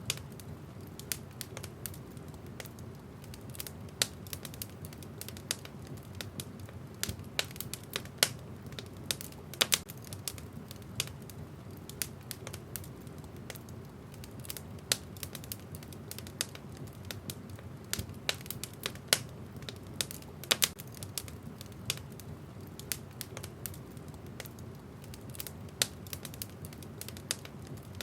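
Wood fire burning in a fireplace, the logs crackling with irregular sharp pops over a steady low rush of flame.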